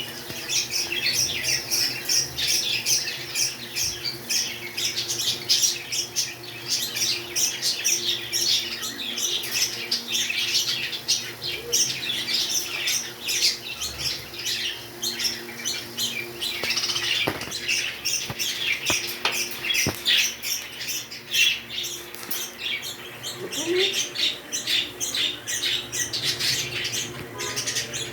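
Pet parrots chattering and squawking without pause: a dense stream of short, high calls overlapping one another.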